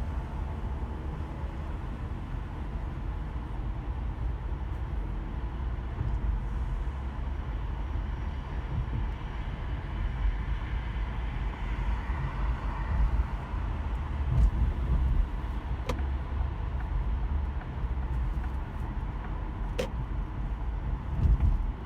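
A car driving in slow city traffic: a steady low road-and-engine rumble, with a few short sharp clicks in the second half.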